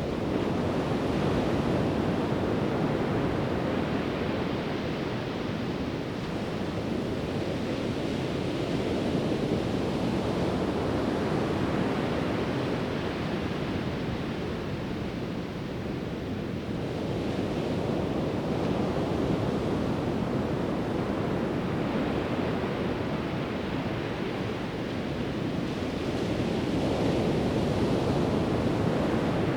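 Pacific Ocean surf breaking and washing on a sandy beach, a steady rushing wash that swells and eases every several seconds as waves come in.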